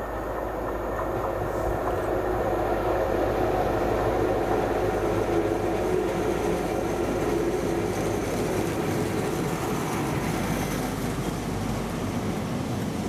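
ScotRail HST with a Class 43 diesel power car approaching and running past at speed. The engine and wheel rumble grows louder over the first few seconds, then the coaches roll by with a clickety-clack of wheels on rail joints.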